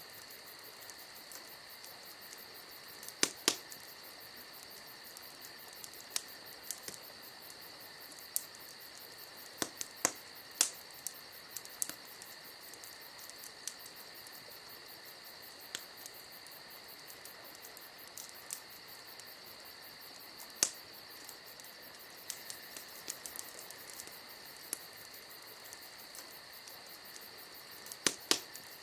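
Crickets chirring steadily as a night-time ambience, with a few sharp pops now and then.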